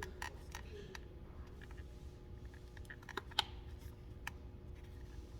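Scattered light clicks and taps from small plastic and metal car-door latch parts being handled and pressed into place, with one sharper click about three and a half seconds in, over a steady low hum.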